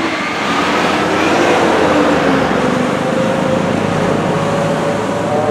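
Road traffic: a motor vehicle going by, its engine note sliding slowly in pitch over a steady rush of tyre noise.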